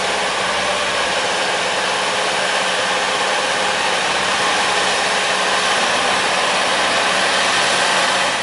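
Heavy engine of road construction machinery running steadily: a loud, even rushing noise with a low steady hum under it.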